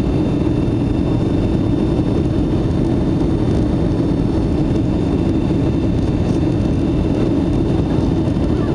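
Steady jet engine and airflow noise heard inside the cabin of a Boeing 757-200 during takeoff and climb. It is a constant low rumble with no sudden changes.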